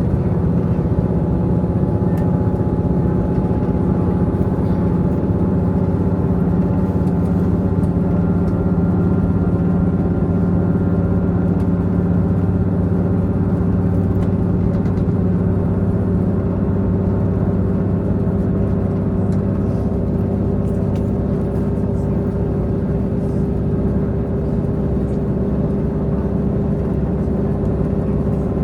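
A Tze-Chiang diesel multiple-unit train's diesel engine running steadily under way, heard from inside the passenger car. It is a loud, even drone with several held tones.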